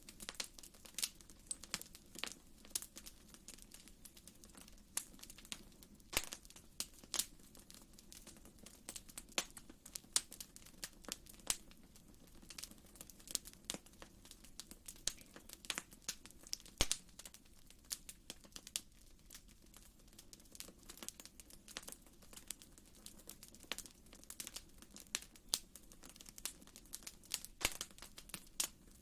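Wood fire in a fireplace crackling, with many irregular sharp pops and snaps of uneven loudness over a low steady rumble.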